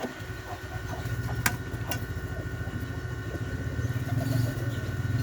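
A small engine running steadily, a low pulsing hum that comes in right at the start, with one sharp click about a second and a half in.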